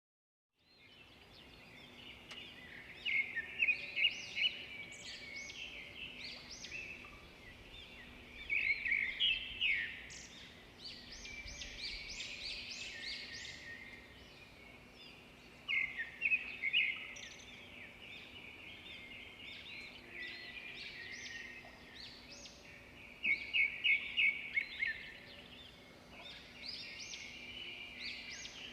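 Songbirds chirping and singing, starting about half a second in, with clusters of rapid high notes every few seconds over a faint steady low hum.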